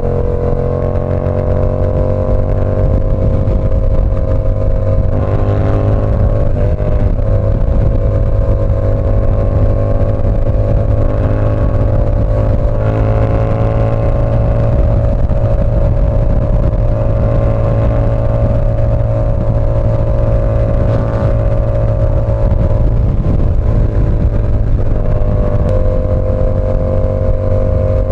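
Yamaha R7's parallel-twin engine running through an SC Project CR-T exhaust under way. The engine note holds fairly steady with gentle rises and falls in pitch, with short breaks about six seconds in and near the end.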